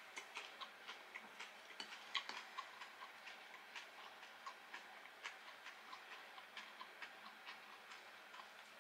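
A person chewing food, heard as faint, soft clicks from the mouth about three times a second.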